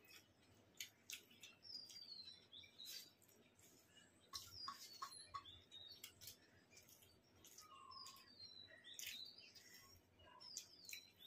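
Faint bird chirping: short, high, falling chirps repeated every second or so. Over it come soft clicks and smacks of people eating rice by hand and chewing.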